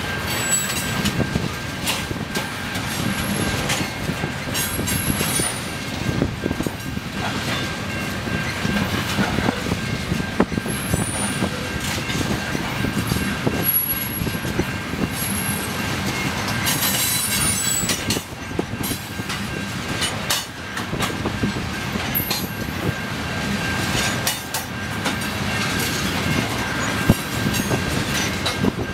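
Freight train of tank cars rolling past: a steady rumble of steel wheels on the rails with clickety-clack over the rail joints, and brief high wheel squeals several times.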